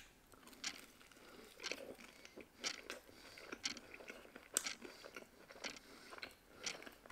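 Faint chewing of a battered, deep-fried chicken ball: soft crunches about once a second.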